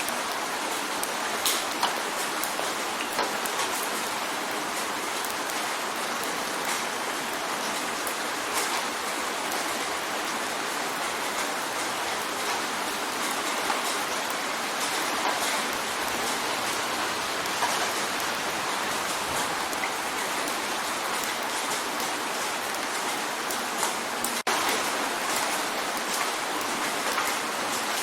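Steady rain drumming on a window: an even hiss with scattered sharper taps of single drops.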